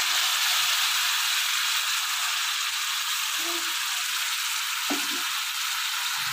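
Semolina roasting in hot oil in a karahi sizzles loudly as sugar syrup is poured in, a steady hiss that eases slightly over the seconds.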